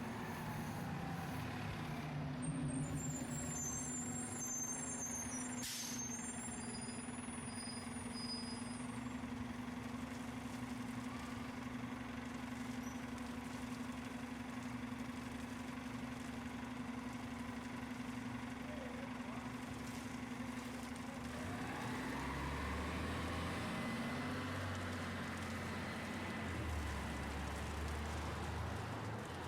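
City street traffic: a heavy vehicle such as a truck or bus idles with a steady low hum, with a brief sharp hiss about six seconds in. About two-thirds of the way through, its engine note rises as it pulls away, over a constant background rumble of traffic.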